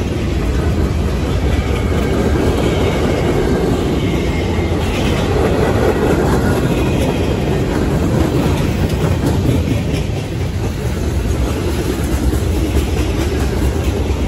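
Freight cars of a short CSX local train rolling past close by, a steady loud rumble of steel wheels on the rails with a clickety-clack over the joints.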